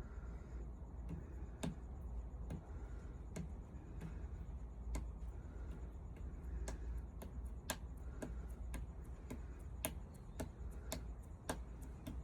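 A series of irregular sharp clicks or taps, a little over one a second and coming more often in the second half, over a steady low rumble.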